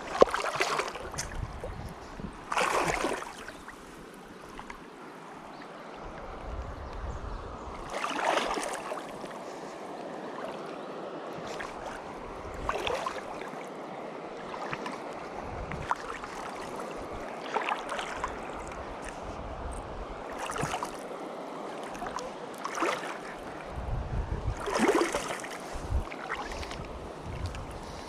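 Shallow mountain stream running, with short splashes every few seconds from someone wading through the water, and now and then wind rumbling on the microphone.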